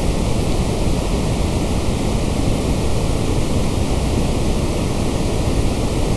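Steady generated white noise: an even, unchanging hiss across all pitches.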